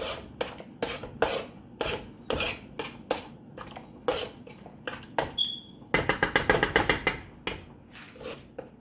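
A utensil scraping and knocking against a frying pan as eggs are scrambled, in separate strokes about two a second, then a fast flurry of strokes for about a second past the middle. A brief high squeak comes just before the flurry.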